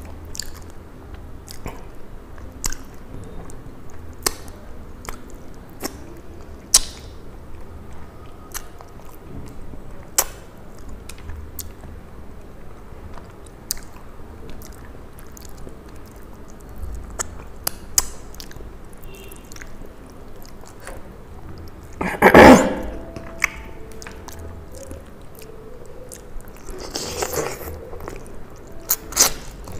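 A person chewing and biting curried fish head, eaten by hand, close to the microphone, with many scattered sharp mouth clicks and smacks. A louder noisy burst comes about three-quarters of the way through.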